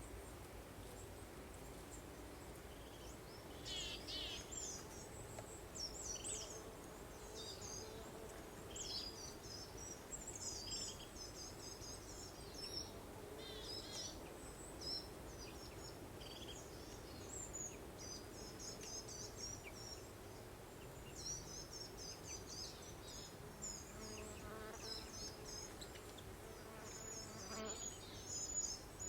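Songbirds chirping and trilling in many short, quick phrases throughout, over a soft, steady background hiss with a faint low hum.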